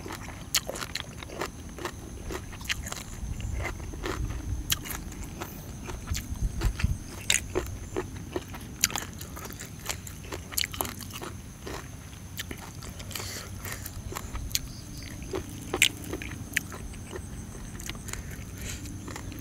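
A person biting, crunching and chewing grilled rice-field crab close to the microphone, with many sharp, irregular crunches and the loudest bites about a third of the way in and again near 16 seconds.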